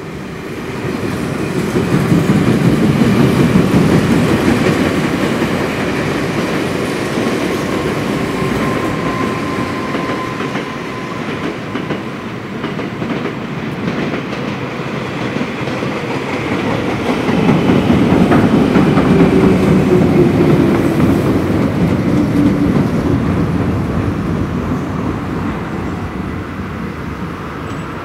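Meitetsu electric train running slowly over an old steel railway bridge, its wheels clacking over the rail joints with a rumble from the bridge. It swells twice, a couple of seconds in and again past the middle, and a thin tone falls slowly in pitch during the second swell.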